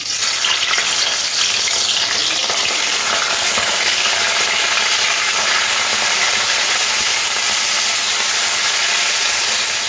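Prawns frying in very hot oil in a kadai: a steady sizzle that starts sharply as the first prawn goes in.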